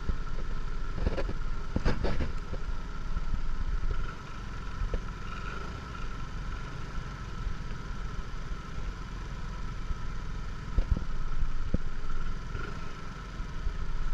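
Motorcycle running on the road, its engine and road noise heard under heavy wind rumble on the camera's microphone, with a steady whine and a few short knocks.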